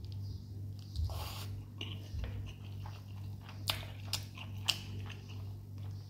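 A person chewing a mouthful of chicken and rice up close, with a few sharp mouth clicks in the second half, over a steady low hum.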